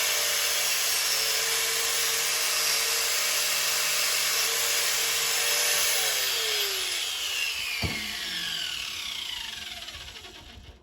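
Handheld power tool scouring rust off a cast baler knotter part, running at a steady whine, then switched off about six seconds in and winding down with a falling pitch; a short knock comes partway through the spin-down.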